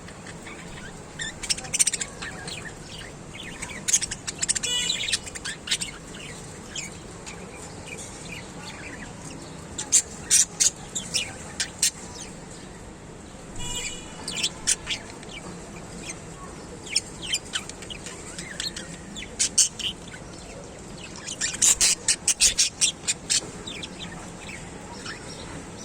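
Parrot calling in short, sharp chirps and squawks that come in scattered bursts, with a couple of longer buzzy calls and a quick run of chirps near the end.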